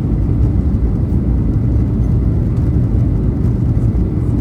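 Steady, loud low rumble inside the cabin of a Boeing 737-800 airliner: engine and airflow noise heard from a window seat.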